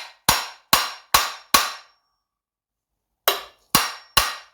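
Hammer blows on the 50cc two-stroke engine's crankcase, knocking the casing halves apart to free the crankshaft. A quick run of sharp, ringing metallic strikes about two or three a second, a pause of a second or so midway, then another run.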